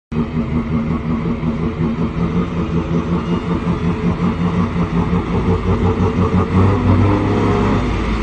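Engine of an old Scania-Vabis truck running with a pulsing, uneven beat, getting louder and deeper about six and a half seconds in.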